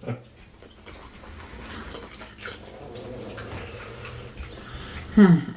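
Close-miked eating sounds: wet chewing and mouth noises, with a brief voice near the end.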